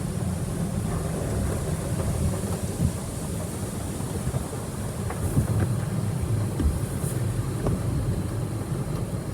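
Autec Evolution automatic car wash running, heard from inside the car: a steady low rumble with a faint high hiss and a few light knocks.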